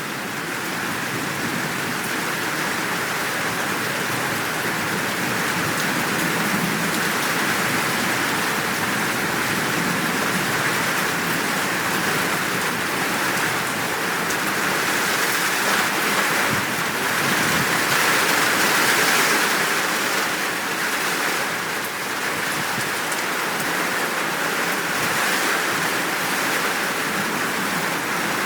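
Steady downpour of rain, a dense even hiss that holds without let-up.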